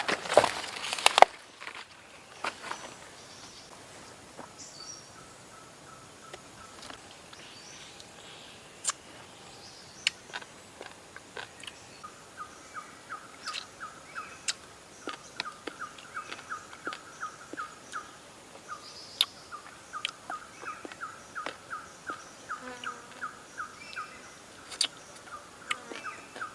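Forest ambience: a few footsteps at the start, then scattered clicks and, from about halfway, a creature chirping in long fast runs of about four notes a second.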